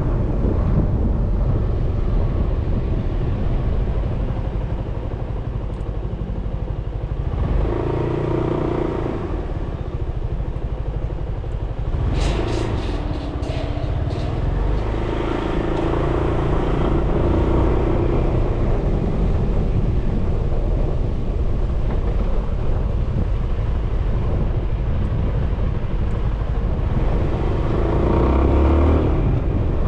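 Suzuki Burgman 400 scooter under way: its single-cylinder engine running with wind buffeting the mounted camera's microphone. There is a short run of clicks about twelve seconds in.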